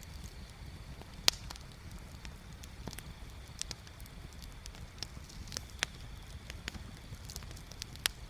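Bonfire crackling, with irregular sharp pops from the burning wood, the loudest about a second in, over a low steady rumble.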